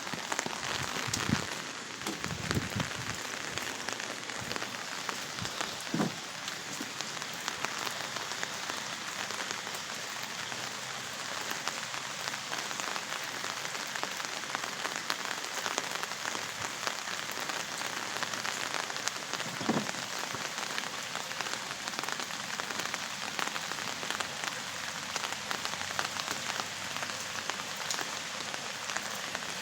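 Heavy rain falling steadily in a downpour, an even hiss of drops on surfaces. A few soft low thuds stand out in the first few seconds and again about twenty seconds in.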